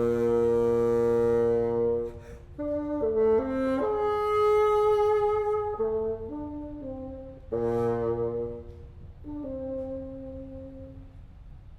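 Bassoon playing a slow passage of held notes that change pitch, in phrases separated by short breaks.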